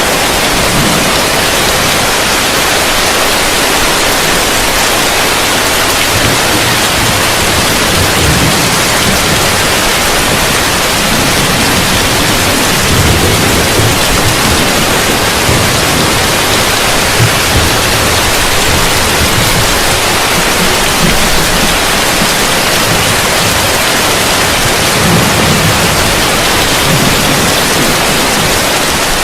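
Heavy rain falling on a roof: a dense, steady hiss of rain, with occasional low rumbles swelling underneath.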